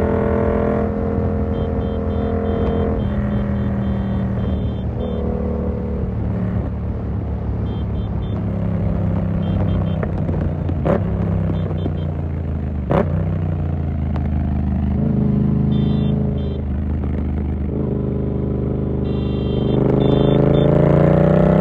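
Yamaha MT-07's parallel-twin engine through an SC Project exhaust with the dB-killer fitted, running at fairly steady revs while riding, with two sharp clicks in the middle. Near the end the revs climb as the bike accelerates.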